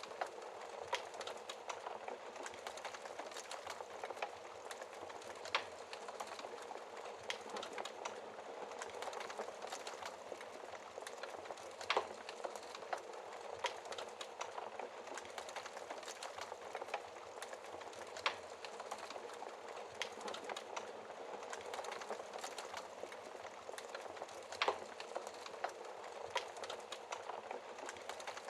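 Wood fire in a fireplace crackling: a steady hiss of burning with irregular small crackles and a few sharper pops.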